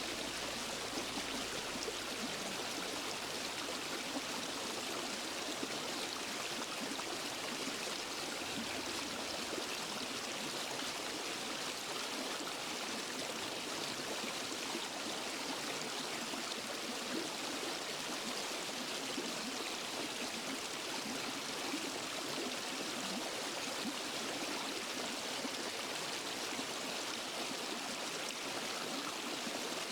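Water of a small waterfall and forest stream rushing and splashing over rocks. It is a steady, unbroken hiss with almost no low rumble.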